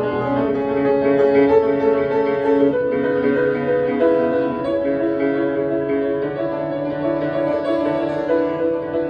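Solo piano improvising, with sustained chords and a melody line that change every second or so.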